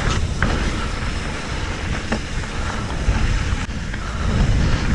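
Mountain bike riding over a dirt trail: wind buffeting the microphone over the rolling tyre noise, with a few sharp clicks and rattles.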